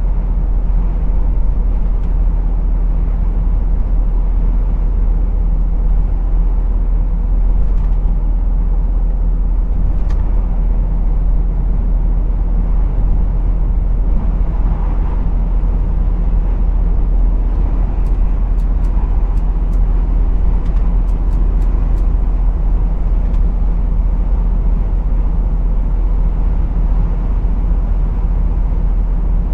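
Heavy goods vehicle driving: a steady low rumble of its diesel engine and road noise, with a few faint clicks in the second half.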